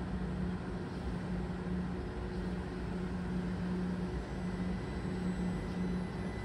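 Train at a station: a steady humming tone over a continuous low rumble.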